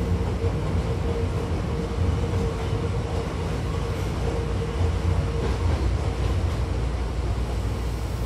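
Hankyu 1000 series electric train running at speed, heard from inside the car: a continuous low rumble of wheels on rails with a steady hum above it.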